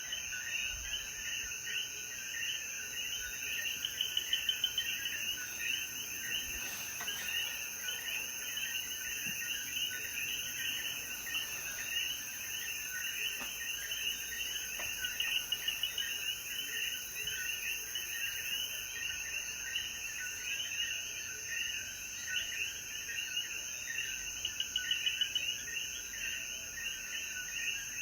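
Night chorus of many Puerto Rican coquí frogs calling over one another, with a steady high insect drone behind them. A louder pulsing call rises out of it three times.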